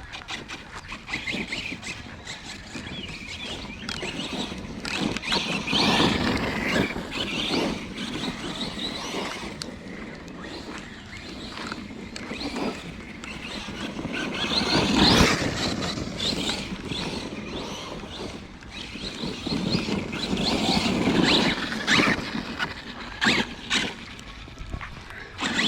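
Arrma Kraton 6S electric RC car driven hard on wet ground: its motor whines up and down in several surges of throttle, with tyre and splash noise and a few knocks.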